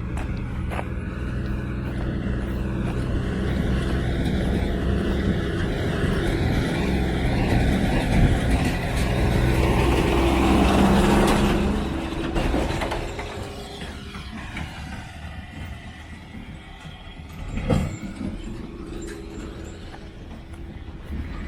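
A motor vehicle driving past: its engine grows steadily louder, is loudest about halfway through, then fades away. A short sharp knock comes near the end.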